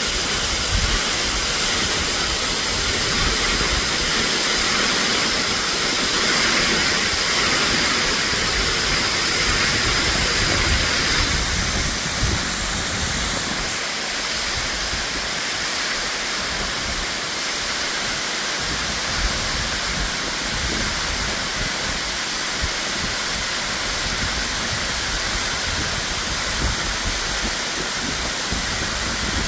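Waterfall rushing: a steady, loud hiss of falling and splashing water.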